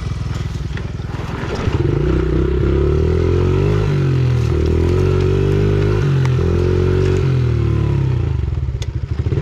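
Pit bike engine accelerating hard through the gears, the pitch climbing and dropping back at each upshift about four, six and seven seconds in, then easing off near the end.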